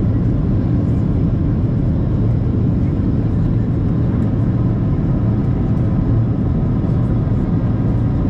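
Steady cabin noise inside a Boeing 737-700 on approach: the CFM56-7B engines and airflow heard as an even, deep rush that keeps the same level throughout.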